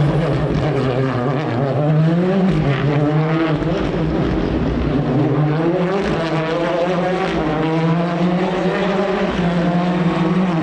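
Rally car engine running hard, its pitch rising and dropping several times as it is revved through the gears.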